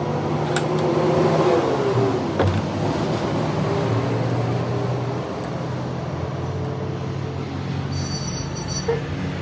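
Heavy machinery running steadily with a low hum, its pitch sliding down between about one and two and a half seconds in.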